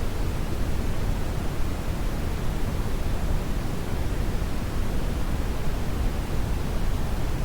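Steady brown noise: an even, unchanging rushing hiss weighted toward the low end, like a deep rumble of wind or surf.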